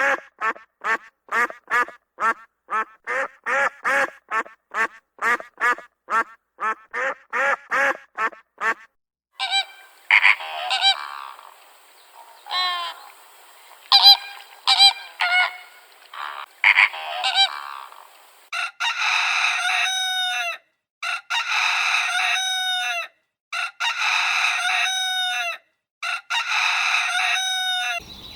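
Waterfowl honking: a quick run of short, evenly repeated honks for about the first nine seconds, a jumble of overlapping calls in the middle, then five long, drawn-out honks near the end.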